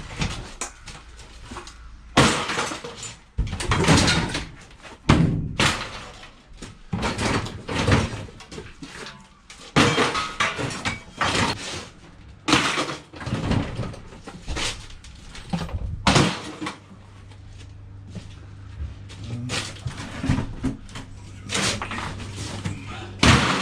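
Scrap metal being thrown and handled: a long run of irregular clanks, bangs and clatters, one to three a second, with a quieter stretch past the middle.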